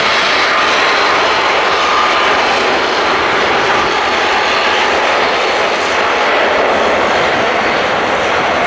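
An airliner's engines running loud and steady, a dense even roar close by.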